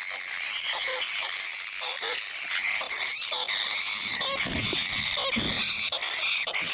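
A steady, dense chorus of high buzzing animal calls with short, lower croak-like calls mixed in, and a few dull low thumps about four to five and a half seconds in.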